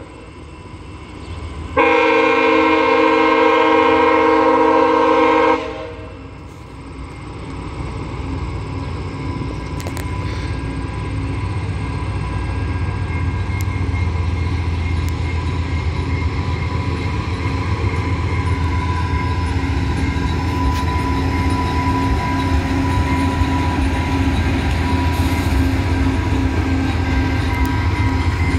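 GE P42DC diesel locomotive of a VIA Rail passenger train sounding one long horn blast of about four seconds, a couple of seconds in. After it, the low rumble of the diesel engine and the train builds steadily as the train approaches and rolls past.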